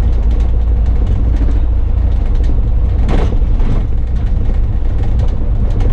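Single-decker diesel bus engine running under way, heard from inside the bus as a loud, steady low rumble with frequent light rattles and clicks from the body.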